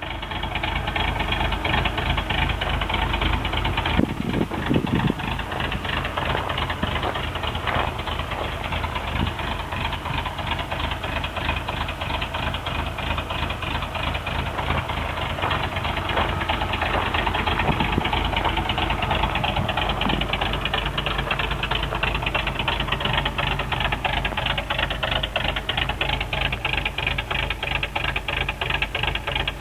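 1984 Toyota pickup's 22R four-cylinder engine idling through a Cherry Bomb muffler: a steady, rapid-pulsing exhaust rumble.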